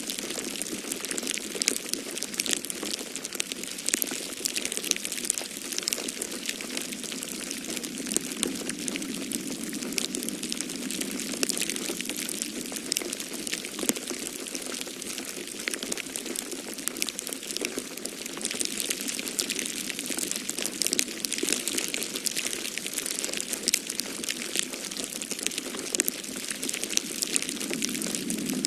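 Wood fire crackling in a fireplace, a dense run of small irregular pops and snaps, over a steady low wind of a snowstorm that swells and eases.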